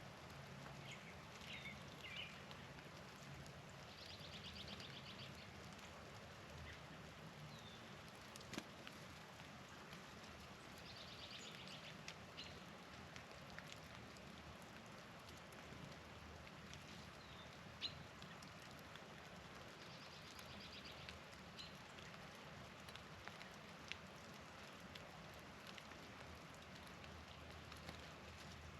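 Faint dark-eyed junco song: a rapid, even trill about a second and a half long, sung three times roughly eight seconds apart, with a few short bird chips and clicks between, over a steady soft hiss.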